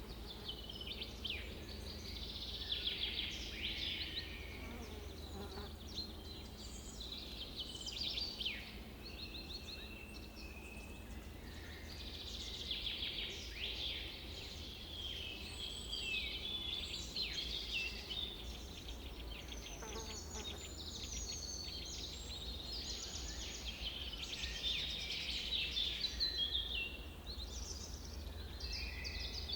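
Several birds chirping and trilling continuously, with many short calls and quick sweeps overlapping, over a steady low rumble.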